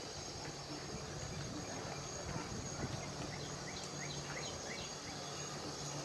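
A bird singing a quick run of short rising notes, about four a second, for a couple of seconds in the middle, over a steady low hum.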